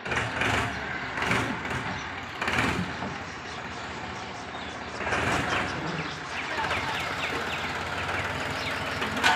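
Tractor engine running steadily, with several louder noisy surges over it.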